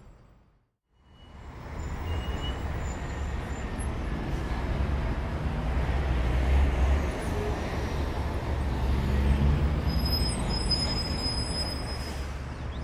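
Outdoor background noise dominated by a low, fluctuating rumble, starting up after a brief dropout to silence just after the start.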